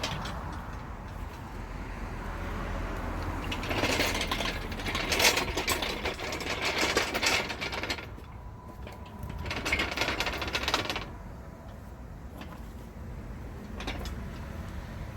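Rapid, chattering mechanical clatter of car-workshop work, in two louder busy stretches about four seconds in and near ten seconds in.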